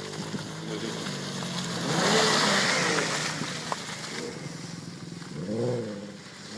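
Car engine revving as the vehicle drives off-road. A loud rush of noise comes in with the revs about two seconds in, and another rev rises and falls near the end.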